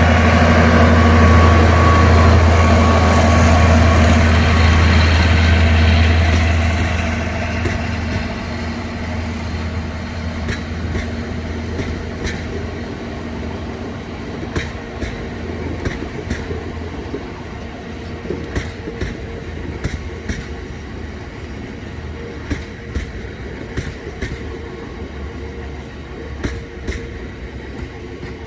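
A locomotive hauling a train of bitumen tank wagons passes close by: its engine is loud and steady for the first six seconds or so, then fades. After that the wagons roll past with their wheels clicking over the rail joints.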